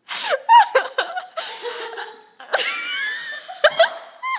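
Girls laughing hard: high-pitched giggles and squeals broken by breathy gasps, in short bursts with brief pauses.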